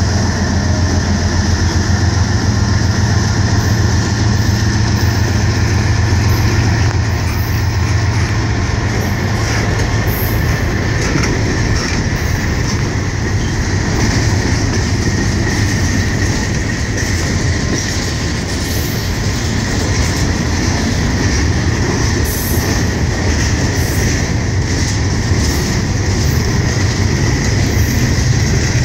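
Freight train passing: the low drone of CSX diesel locomotives working at full throttle fades over the first several seconds, then freight cars roll by with wheels clacking over the rail joints and a thin steady wheel squeal.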